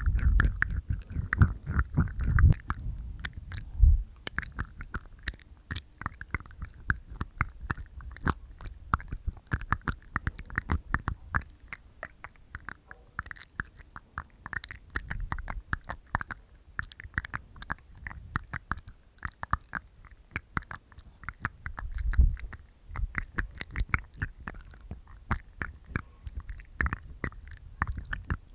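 Close-miked ASMR mouth sounds from inside the mouth: a rapid, continuous stream of small wet tongue clicks and teeth taps. Heavier low thumps come in the first few seconds and again a little past the middle.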